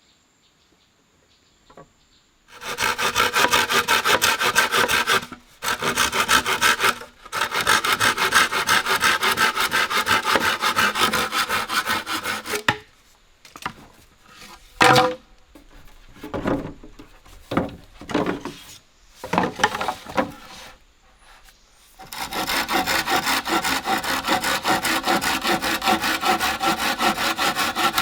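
Hand saw cutting through wood in long spells of steady rasping strokes. About halfway the sawing stops for several seconds, filled by scattered knocks and handling of wood, then starts again.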